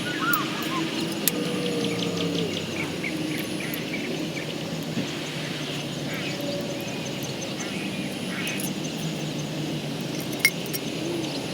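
Outdoor ambience of birds calling over a low, steady hum, with one sharp click about ten and a half seconds in.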